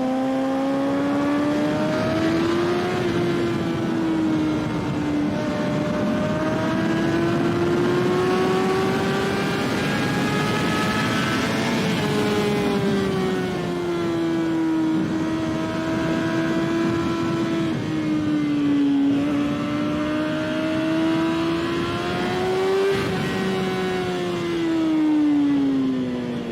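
Kawasaki ZX-6R inline-four engine at high revs on track, its pitch climbing and falling with throttle and gear changes, over a steady rush of wind noise. Near the end the revs fall steeply as the bike slows.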